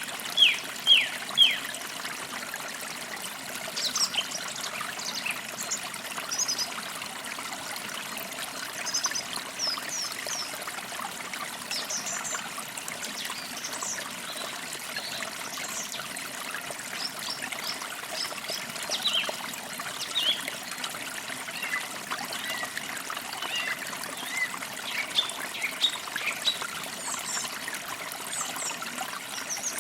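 Small forest creek trickling steadily, with birds chirping over it: a quick run of four loud downward chirps in the first second and a half, then scattered higher chirps.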